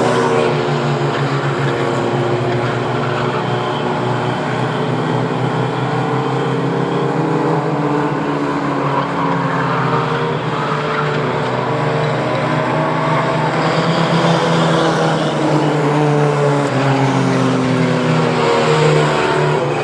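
Pack of Mighty Trucks class short-track race trucks running at racing speed, several engines overlapping and rising and falling in pitch as they lift and accelerate around the oval.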